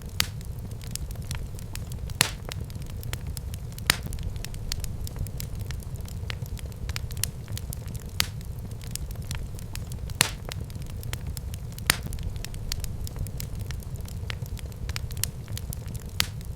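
Wood fire burning in a fireplace, crackling: a steady low rumble of the flames with many small crackles and a sharp louder pop every couple of seconds.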